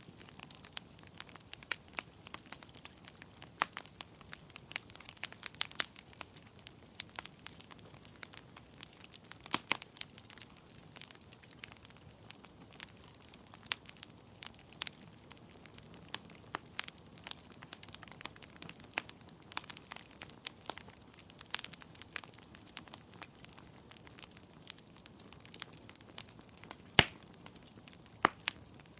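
Wood fire burning in a fireplace: burning logs crackling with irregular sharp pops over a low steady hiss, with a couple of louder pops near the end.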